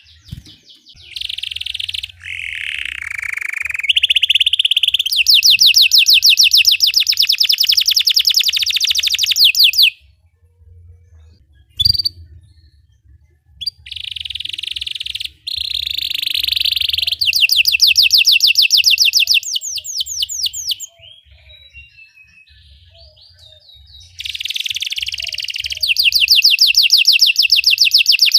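Belgian canary singing: long phrases of very fast, evenly repeated high notes, rolling trills, broken by pauses of a few seconds. A single sharp click falls in the middle of one pause.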